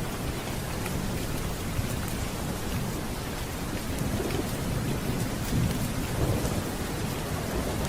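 Steady heavy rain with low rolling thunder rumbling underneath, the rumble swelling about six seconds in, and faint scattered ticks over the top.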